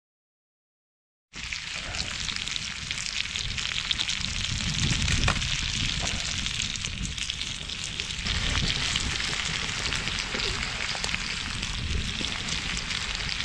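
Diced carrots sizzling in butter in a cast-iron skillet over a wood campfire, with fine crackling throughout and a low rumble underneath. It starts abruptly after about a second of silence.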